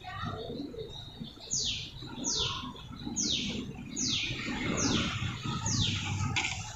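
A bird calling over and over: a short, falling note repeated about once every three-quarters of a second, starting about a second and a half in.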